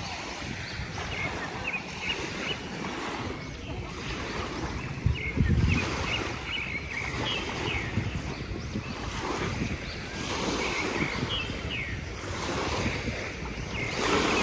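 Small sea waves washing on the shore, with wind buffeting the microphone and a strong gust about five seconds in. Faint short high-pitched calls come and go in the background.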